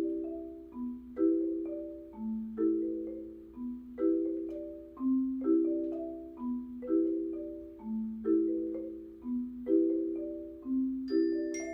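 A mallet percussion ensemble plays a waltz. Each bar has a low bass note followed by two struck chords in a steady oom-pah-pah, about one bar every second and a half. Bright, high glockenspiel-like notes join near the end.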